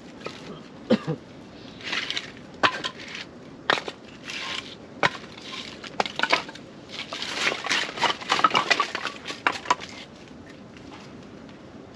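Handling noises: rustling and crinkling with many sharp clicks and knocks, busiest a little past halfway, then easing off near the end.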